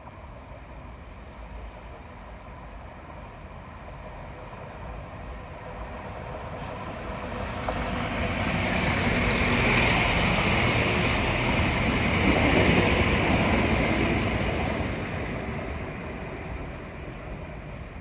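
A train passing by. Its noise builds over several seconds, is loudest for a few seconds midway, then fades away. A high whine rides over the rumble at its loudest.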